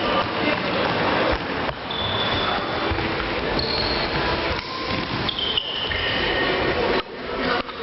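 Floorball play in a sports hall: shoes squeaking on the court floor in short high squeals, several times, over a steady din of play with occasional knocks of sticks and ball.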